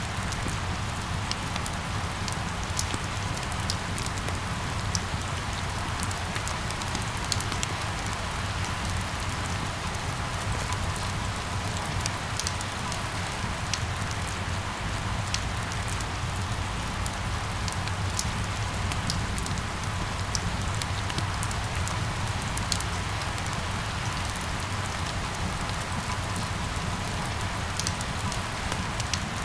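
Steady rain falling, with scattered sharp drop ticks over an even hiss and a low steady rumble underneath.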